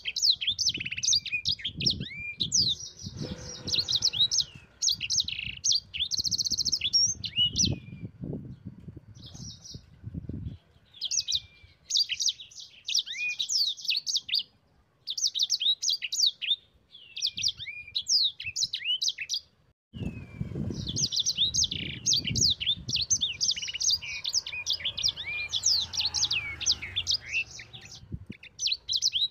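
Sanger songbird singing a fast, chattering song of rapid high chirps and trills in long runs broken by short pauses. A low rumbling noise sits under the song for the first third and again from about two thirds in.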